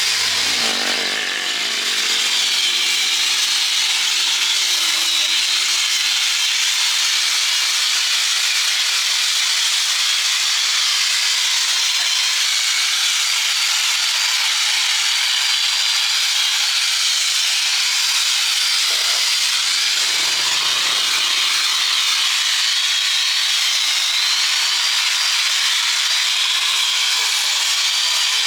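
A power tool working steadily on metal without a break, most likely an angle grinder taking rust off a steel truck chassis. It makes a continuous hissing grind, with a thin whine that wavers as the load changes.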